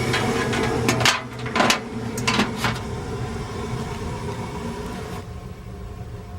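Rheem RGPR two-stage gas furnace running with a steady hum that drops in level about a second in. A handful of sharp clicks come over the next two seconds, and a high hiss cuts off about five seconds in.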